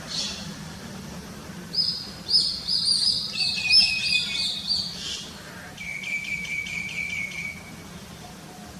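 Crested myna calling: a quick run of clear, high whistled notes, then a lower buzzy call that pulses rapidly for about a second and a half.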